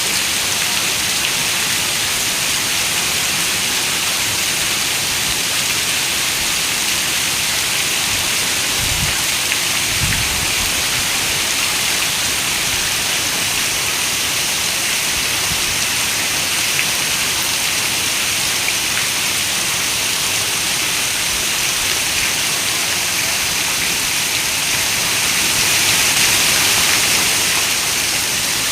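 Steady rain falling on a window, an even hiss of drops. Two brief low thumps come about nine and ten seconds in, and the rain swells a little near the end.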